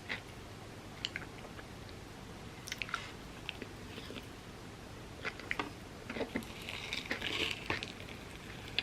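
Close-up eating sounds of overnight oats topped with hardened chocolate and crunchy pistachio kataifi: wet chewing with scattered sharp clicks and crunches, busiest about seven seconds in.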